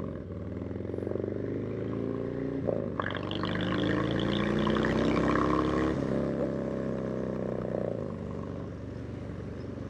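Harley-Davidson Low Rider S's Milwaukee-Eight V-twin running through a Vance & Hines stainless 2-into-1 upsweep exhaust while accelerating through the gears. The pitch climbs, drops at a shift about two and a half seconds in, climbs again, drops at another shift about six seconds in, then levels off.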